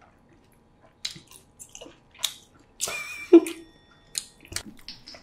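Close-miked chewing of spicy cold noodles (bibim-myeon): a run of short wet smacks and clicks that starts about a second in, with a louder cluster about three seconds in.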